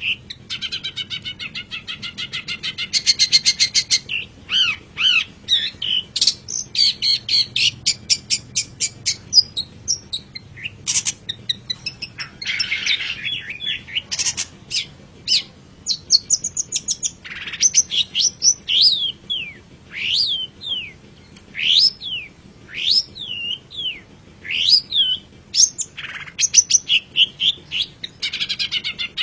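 Long-tailed shrike (cendet) singing a continuous, varied song. It opens with rapid chattering trills, has a harsh raspy burst about halfway, then a run of sharp up-and-down whistled notes.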